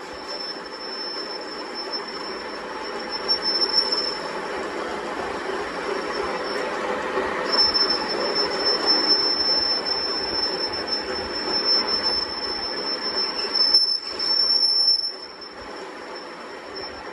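Workshop metalworking machinery running: a steady high whine over a rough grinding noise, louder through the middle and dropping away near the end.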